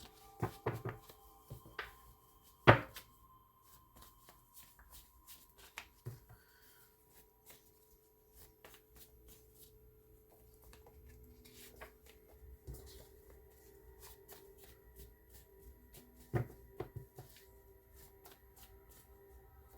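A deck of oracle message cards being shuffled by hand: a long run of light card clicks, with a sharp loud tap about three seconds in and another cluster of taps near the end.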